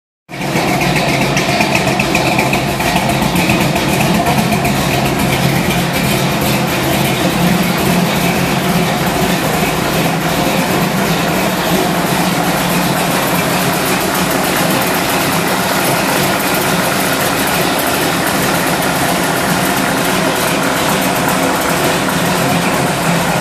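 1984 Oldsmobile Cutlass's 355 small-block V8 idling steadily.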